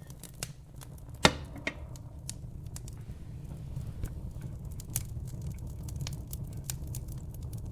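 Wood fire burning in a fireplace: a steady low rumble with frequent sharp crackles and pops, the loudest a single pop about a second in.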